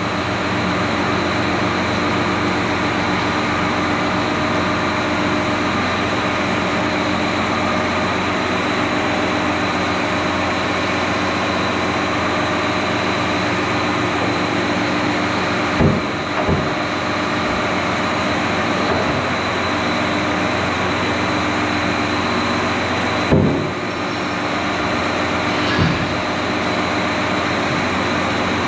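Big excavator's diesel engine running steadily, with a few heavy clunks, about three, in the middle and near the end.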